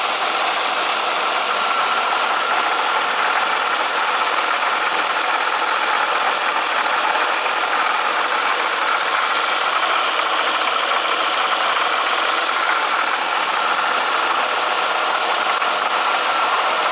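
Eaton M90 supercharger on a GM 3800 Series II V6 at idle, making a steady rattle. The owner puts it down to either a failing coupler or a bad rotor pack.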